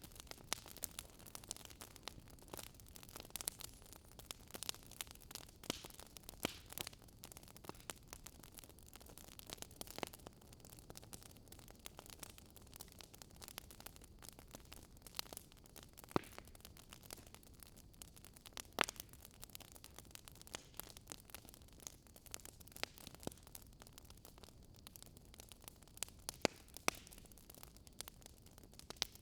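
Wood fire crackling in a fireplace: irregular sharp pops and snaps over a soft steady hiss, with one louder pop a little past halfway.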